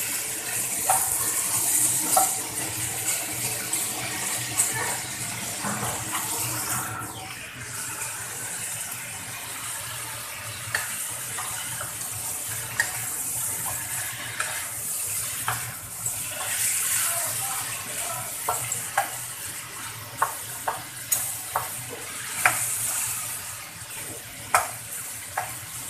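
Chicken pieces sizzling as they fry in oil in a nonstick pan, with a wooden spatula scraping and clicking against the pan as they are stirred; the clicks come more often in the last few seconds.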